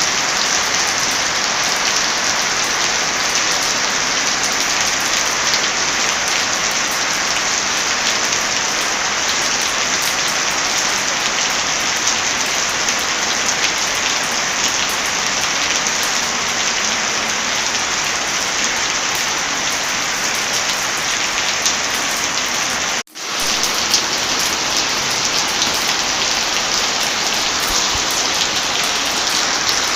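Heavy rain falling steadily, a dense even downpour. About three-quarters of the way through, the sound cuts out for a split second and swells straight back, like a loop join.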